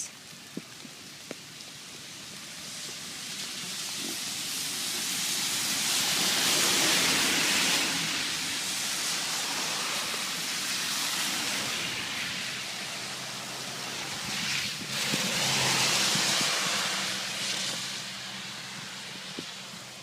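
Heavy downpour of rain falling, a steady hiss that swells louder twice, about a third of the way in and again past two-thirds.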